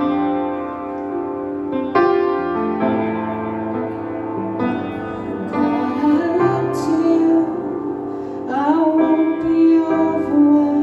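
Worship song played on piano, sustained chords struck every second or two, with a woman's voice singing over it near the end.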